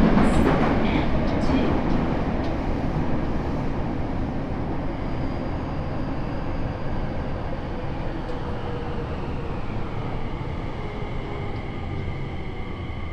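Interior running sound of a Tokyo Metro 7000-series subway train with Hitachi IGBT inverter traction motors, slowing down. The wheels click over rail joints in the first couple of seconds, then the rumble fades and the inverter and motor whine comes up as several thin tones that slowly fall in pitch, the sound of the train braking.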